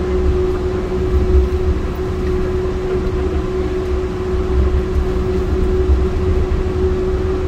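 Cabin sound of a Yurikamome rubber-tyred automated train running along its concrete guideway: a steady low rumble with a whine held at one pitch.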